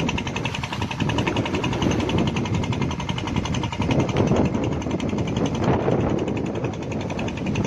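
An engine running steadily, with a fast even beat and a rough rumble beneath it.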